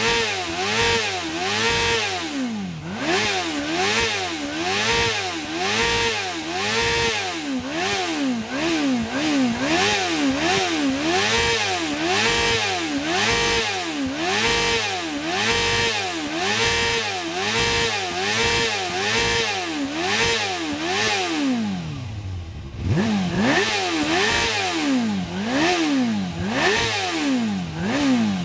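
Suzuki GSX-R inline-four motorcycle engine revved hard again and again, its pitch climbing and falling about once a second, with the rear tyre spinning. About three-quarters of the way in the revs drop low for a moment, then the revving starts again.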